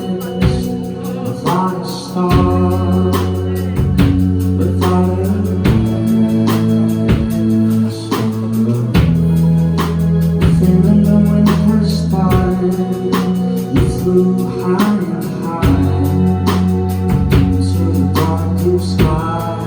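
Live rock band playing a song with singing over bass, electric guitar and drums, with a steady beat.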